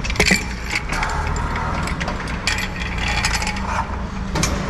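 Metal hardware clinking and knocking: the steel shaft, bearings and brackets of a commercial overhead door being handled and fitted, with many short irregular clinks.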